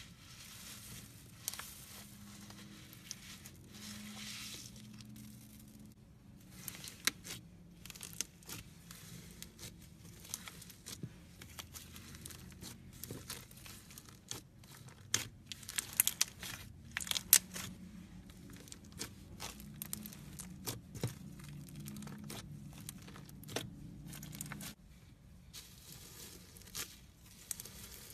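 Foam-bead slime (floam) being squeezed and pulled by hand, the polystyrene beads crackling and popping in dense clicks, with a few sharper pops midway.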